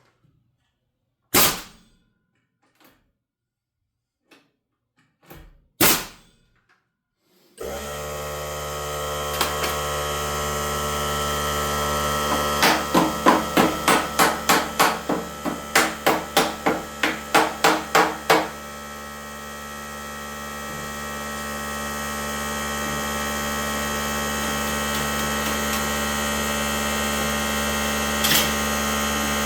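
Hammer strikes on wall framing: two single knocks, then a fast run of about a dozen blows at roughly two a second. A motor starts abruptly about seven and a half seconds in and keeps running steadily underneath.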